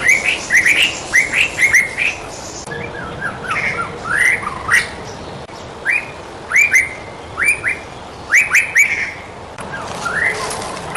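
White-rumped shama singing: quick phrases of short, sharp whistled notes, each dropping in pitch, with brief pauses between phrases.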